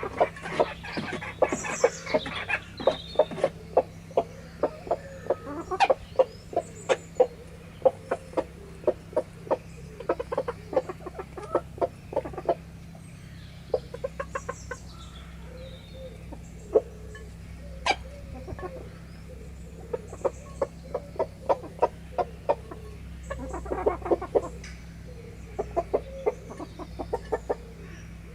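Chickens pecking at food, with quick sharp beak taps and soft clucking. The pecking is busy at first, thins out in the middle, and picks up again near the end.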